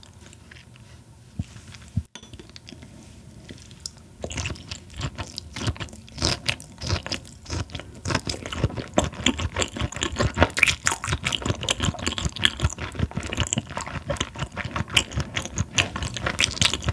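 Close-miked chewing of raw Chinese herring sashimi: a quick, dense run of wet crunching and clicking that starts about four seconds in, with only a few faint clicks before it.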